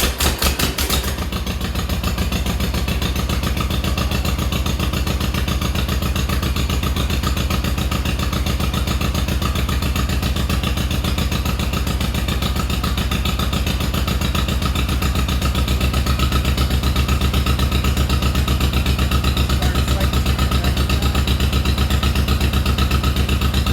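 1952 John Deere MT tractor's two-cylinder engine catching and then running steadily with an even pulsing beat, a little louder from about fifteen seconds in. It started right up after sitting for months since the previous autumn.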